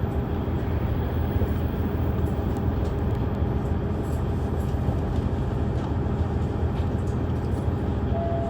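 Interior of a KiHa 110 series diesel railcar under way: the steady hum of its diesel engine and the running noise of the wheels on the rails. A short tone comes in right at the end.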